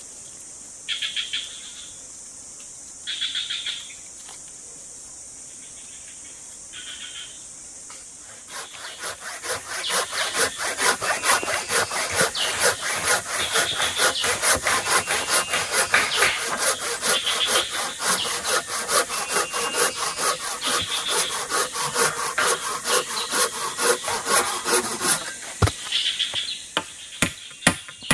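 Hand saw cutting through wood in fast, even back-and-forth strokes, starting about eight seconds in and stopping a few seconds before the end. Before it, a steady high insect buzz with a short repeated call about every two seconds; near the end, a few separate sharp knocks.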